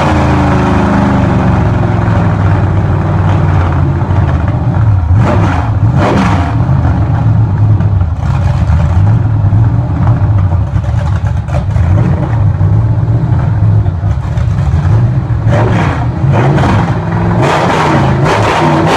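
Chevrolet 5.3 L Vortec V8 running on its first start-up, engine speed falling and settling during the first couple of seconds, then running loud and steady with a few brief rises in revs.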